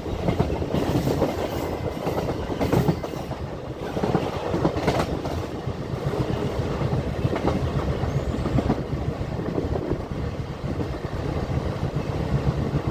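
Passenger train running at speed, heard from aboard at the side of a coach: a steady rumble of the coaches, with wheels clacking over rail joints and points in several bursts, the clearest about one, three and five seconds in.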